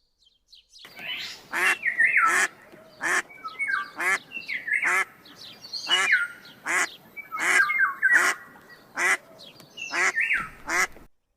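Ducks quacking, about a dozen loud quacks repeated roughly every 0.7 s, with shorter, higher calls in between.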